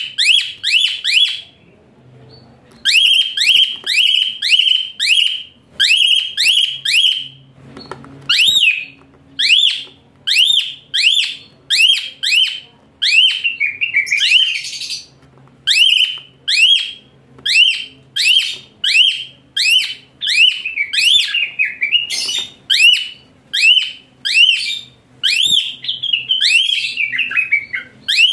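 Asian pied starling (jalak suren) calling in a fast, loud run of shrill, high-pitched notes, about three a second, each sweeping up and then down. There is a brief break about two seconds in.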